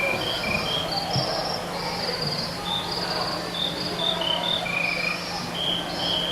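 Several crickets chirping, overlapping short, pulsing trills at a few different high pitches that keep starting and stopping; the sound is loud.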